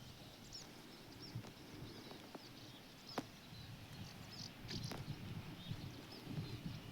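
Small birds chirping: short, high calls scattered through, over a faint low outdoor background with a few sharp clicks.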